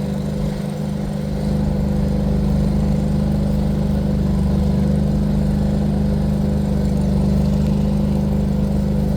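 Steady low hum of an engine or motor running, holding one pitch throughout and getting a little louder about a second and a half in.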